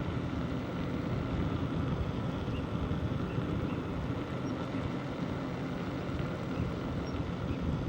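Steady low rumble of wind on the microphone and tyre noise from a moving bicycle, with a few faint, short high peeps.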